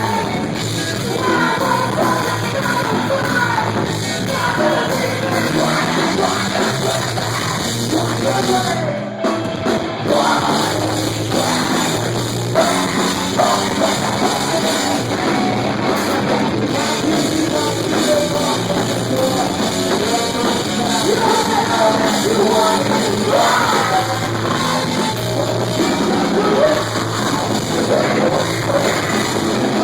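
Loud live rock band, drums and guitars, playing with a singer's voice over it. The sound dips briefly about nine seconds in.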